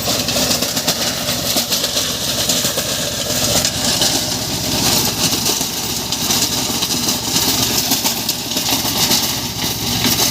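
Swaraj 724 XM Orchard mini tractor's diesel engine running steadily.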